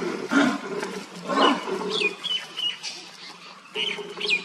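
An animal growling in three loud, rough bursts within the first second and a half, with short, high, falling chirps later on.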